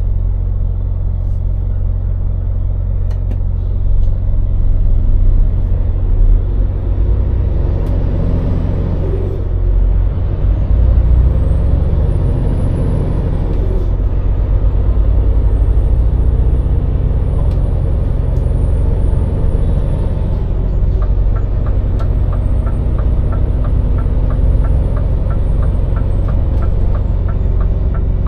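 Scania truck's diesel engine running with a steady low rumble while driving, with a short air hiss about eight seconds in. A faint high whine rises and falls several times, and a regular ticking starts in the last seven seconds.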